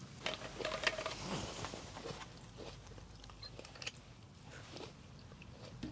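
A person biting and chewing food, with small scattered clicks from mouth and food, busiest in the first couple of seconds.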